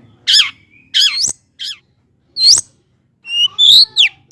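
Long-tailed shrike (cendet) singing loudly: a run of short, sharp, piercing calls that sweep downward, about one every half-second to second, turning into quicker whistled slides near the end.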